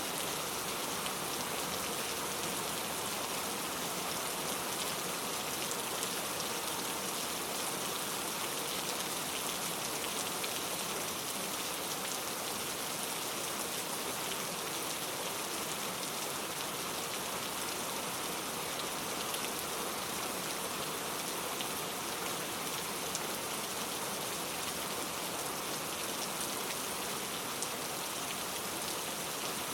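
Steady rain falling, a dense even hiss of drops with fine patter, with no thunder.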